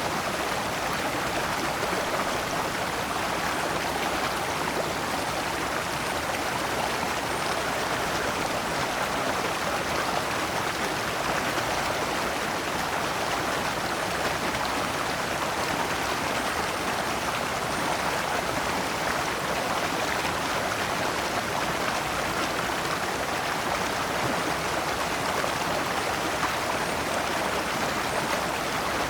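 Shallow stream running steadily over rocks, water splashing down small cascades.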